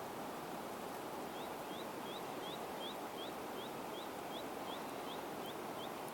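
A bird repeating a short, high, rising call note about two to three times a second, starting about a second in, over a steady background hiss.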